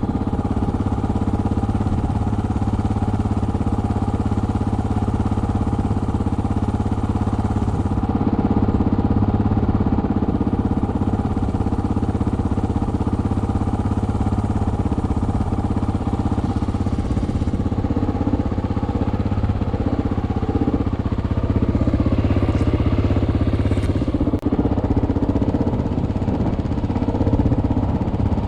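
Single-cylinder four-stroke dual-sport motorcycle engine running at a fairly steady pace while riding, heard from the rider's helmet.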